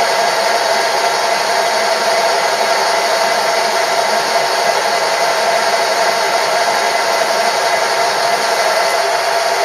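Machine tool running steadily, a continuous motor whine with a strong steady hum over a noisy hiss.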